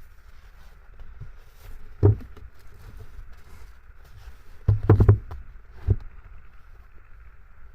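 A few dull knocks and thumps over a steady wind rush: one about two seconds in, a loud cluster of them around five seconds, and one more just before six seconds.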